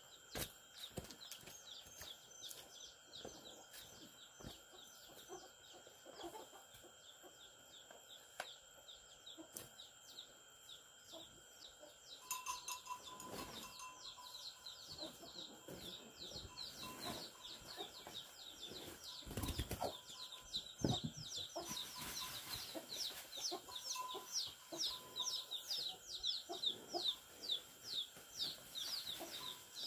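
Chickens calling in rapid, repeated high peeps over a steady high whine, growing louder about halfway through, with scattered knocks.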